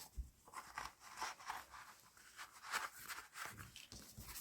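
Faint rustling and light knocks of paper and card as a handmade junk journal is handled and its pages moved.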